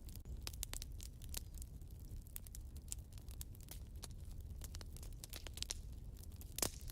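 Wood fire burning in a fireplace, crackling with irregular sharp pops and snaps over a low steady rumble; one louder pop near the end.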